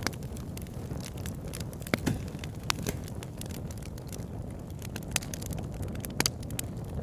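Wood fire burning in a fireplace: a steady low rumble of flames with scattered sharp crackles and pops, a few louder pops about two seconds in and again near the end.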